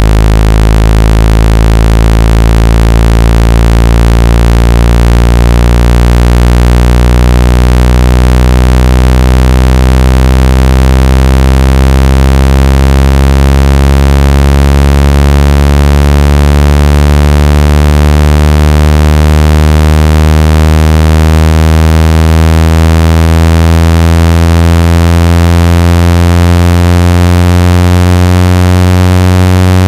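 Synthetic water-eject tone for a phone speaker: a loud, low buzzing tone with many overtones that slowly rises in pitch, meant to vibrate trapped water out of the speaker.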